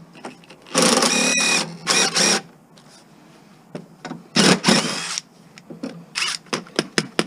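Cordless drill fitted with a socket, run in short bursts to back out bolts: three main runs of about half a second to a second, then a few brief blips near the end, each starting with a rising motor whine.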